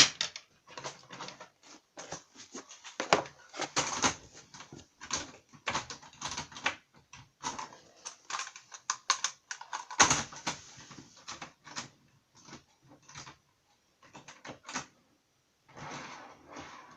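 Irregular light clicks and clatter of model railway coaches being handled and set onto the track, plastic bodies and metal wheels knocking on rails and on each other.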